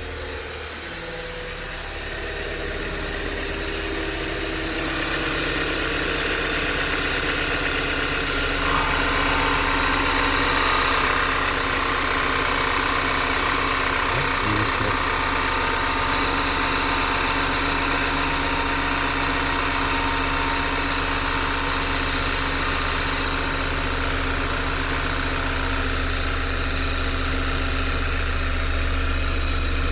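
Volkswagen Tiguan's 2.0 TSI (CAWA) petrol engine idling cold, with extraneous noise from the timing-chain side that the owner presents as abnormal. It gets louder over the first few seconds, and a higher note joins in about nine seconds in and fades out near the end.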